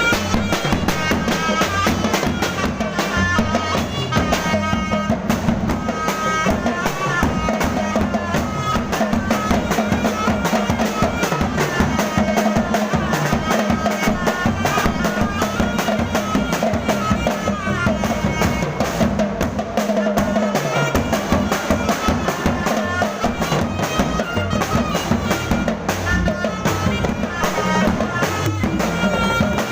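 Thai procession band music: steady driving drums and percussion with a wind melody over a sustained low drone.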